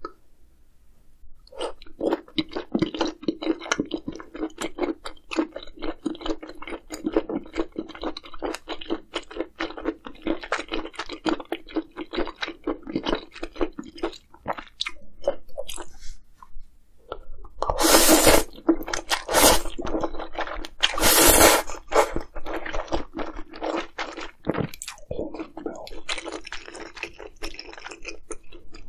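A person chewing and crunching food close to the microphone, rapid dense crunches one after another, with two louder, noisier bursts about two-thirds of the way through.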